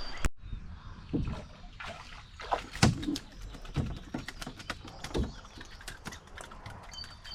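Canoe being paddled: water sloshing and splashing, with irregular knocks about every second or so.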